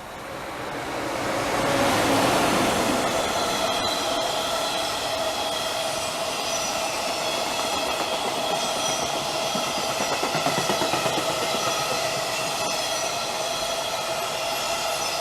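Electric train passing on the line. The noise swells over about two seconds, then holds steady as the cars go by, with rail noise and several steady whining tones over it.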